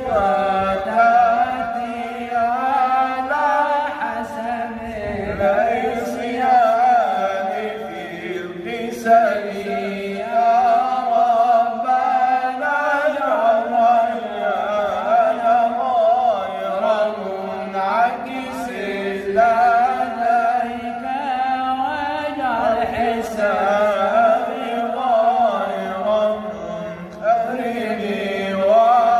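Male voice chanting an Arabic religious ode (madih) in long, ornamented melismatic phrases, the pitch winding up and down through each drawn-out syllable.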